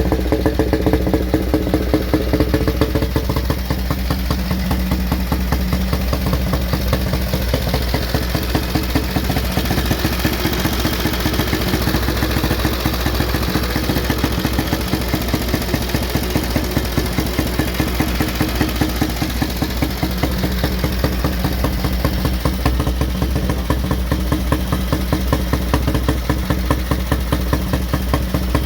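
Vintage Benelli 175 motorcycle engine idling steadily with an even, regular firing beat.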